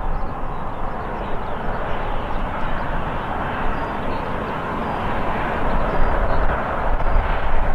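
Airliner's jet engines running, a steady loud rushing noise with a deep rumble underneath.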